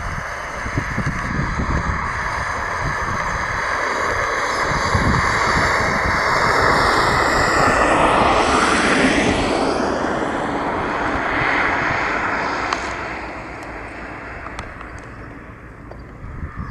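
Jet airliner passing close by, its engine noise building to a peak about halfway through. The engine whine drops in pitch as it goes past, then fades away.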